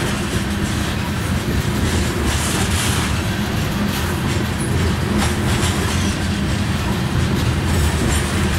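Loaded covered hopper cars of a grain train rolling past close by: a steady rumble of steel wheels on rail, with irregular clicks as the wheels cross rail joints.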